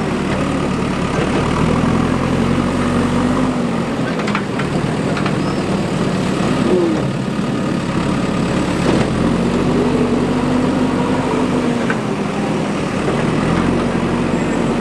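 Diesel engine of a JCB 3DX backhoe loader running under working load, its pitch dipping and rising a few times as the load changes, with a couple of knocks.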